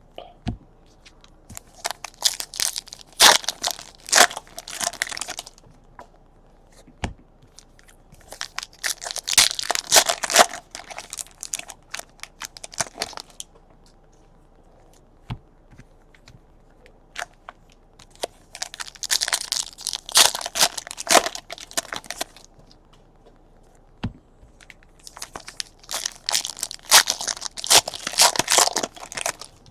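Plastic wrapping on trading card packaging being torn open and crinkled, in four bursts of a few seconds each with short pauses between, and a few single clicks and taps.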